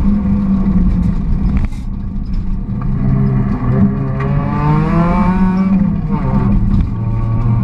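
Volkswagen Golf GTI rally car's engine under hard acceleration, heard from inside the cabin. About two seconds in the engine note drops, then it climbs steadily to a high-revving peak about five seconds in. It drops briefly again near six seconds and picks back up.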